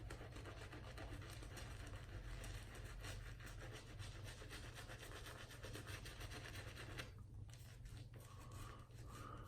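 Silvertip badger shaving brush scrubbing soap lather onto a stubbled face: a faint, steady scratchy rubbing of the bristles, easing off briefly about seven seconds in.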